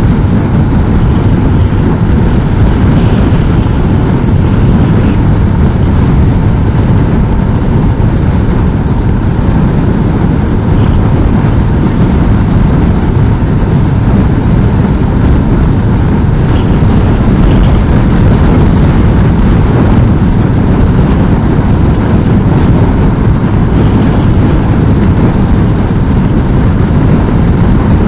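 Loud, steady rush of wind and riding noise on a Honda NC750S motorcycle at speed, with the strong wind buffeting the external microphone.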